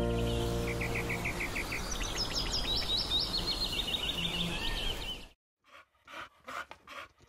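A bird singing repeated short chirps and trills over a steady outdoor hiss, while a closing music chord fades in the first second. After a sudden cut to silence about five seconds in, a dog pants faintly in a few short breaths.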